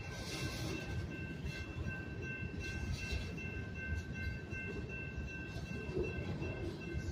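Freight cars of a slow-moving train rumbling over the rails through a grade crossing, with the crossing's warning bell ringing steadily over it as a repeating high tone.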